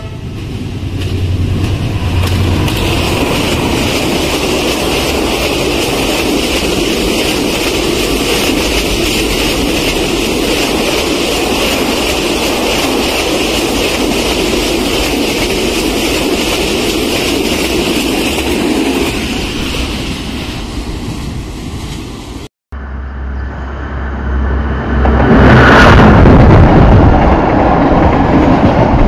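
A passenger train passing close by: the locomotive's engine rumbles for the first couple of seconds, then the coaches' wheels run over the rails in a steady rushing clatter that fades out after about twenty seconds. After a sudden cut, a container freight train rolls past with a deep rumble that grows louder near the end.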